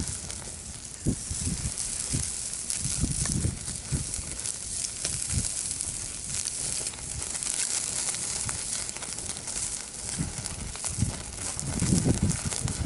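Wood fire in a fire-pit stand crackling and hissing steadily with many small pops, with food grilling over the flames.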